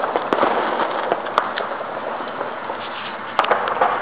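Fireworks going off: three sharp bangs, one just after the start, one about a second later and one near the end, over a continuous noisy crackle.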